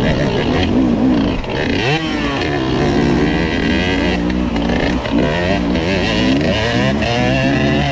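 Dirt bike engine running along a trail, its pitch rising and falling as the throttle opens and closes, with a quick rev up about two seconds in.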